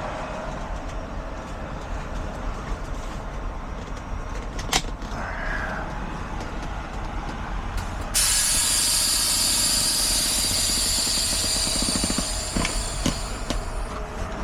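Truck engine idling steadily, with a sharp click about a third of the way in. Past the middle, a loud hiss of compressed air from a truck's air system starts suddenly, runs about five seconds and then fades.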